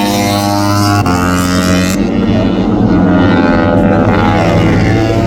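MotoGP race motorcycle engines running hard at high revs, a steady engine note that shifts slightly in pitch about one and two seconds in.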